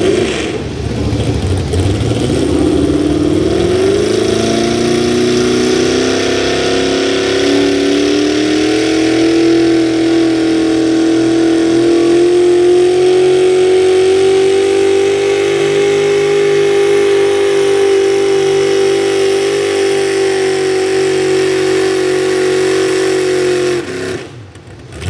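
Two-wheel-drive super stock pulling truck's engine at full throttle on a sled pull: the pitch climbs over the first few seconds, then holds high and steady for about twenty seconds before cutting off suddenly near the end.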